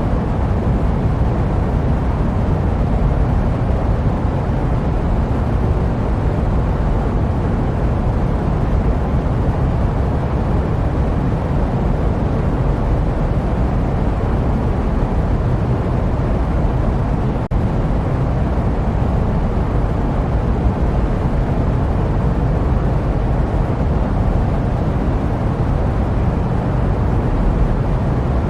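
Steady jet aircraft noise: a deep, even rumble with no rhythm or change in pitch. It dips for an instant about 17 seconds in.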